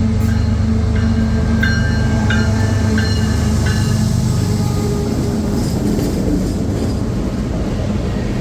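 CSX freight train passing close by. The low diesel drone of its GE ES44AC-H locomotives fades after about four seconds, giving way to the steady rumble of the freight cars rolling past. A few brief high wheel squeals come in the first half.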